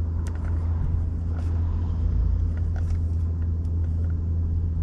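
A steady low rumble with a few faint, scattered clicks over it.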